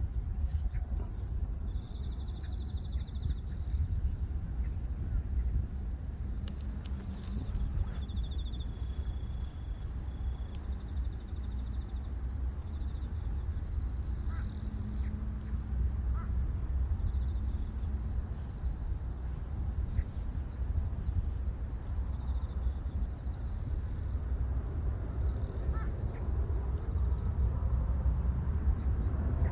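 Steady chorus of grass insects trilling continuously in two high bands, with short chirps from another insect now and then, over a constant low wind rumble on the microphone.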